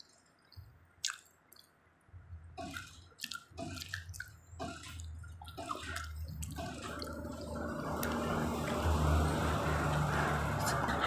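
Close-up wet eating sounds: chewing and lip-smacking of saucy food, in scattered small clicks. From about halfway a steady low rumble with a hiss builds up underneath.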